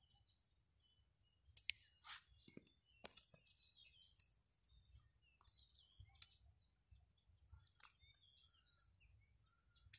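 Faint, scattered bird chirps over near silence, with a few sharp clicks, the strongest about a second and a half and three seconds in.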